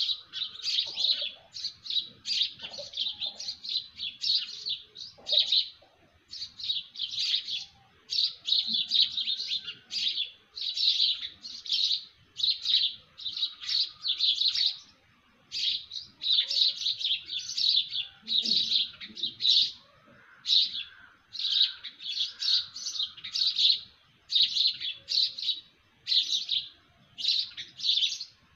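Small birds chirping: quick high twittering phrases, one after another with brief pauses between them.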